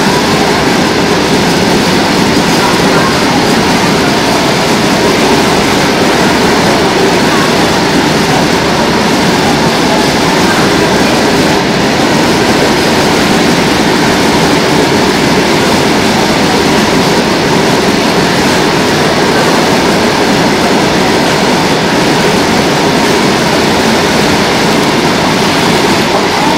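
Covered freight wagons of a long goods train rolling past, a loud, steady noise of steel wheels on the rails with no change in pace.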